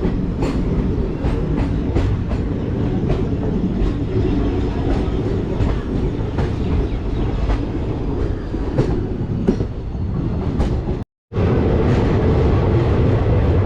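Passenger train running on the rails, heard from on board: a steady heavy rumble with wheels clicking over rail joints several times a second. A brief cut to silence comes about two-thirds of the way through, and the rumble is louder after it.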